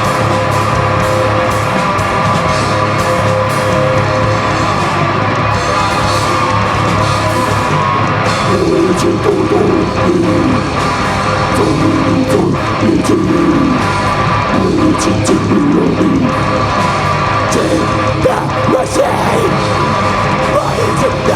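Live rock band playing loud, heavy music with guitars and drums; a voice comes in singing or shouting about eight seconds in and drops back about halfway through.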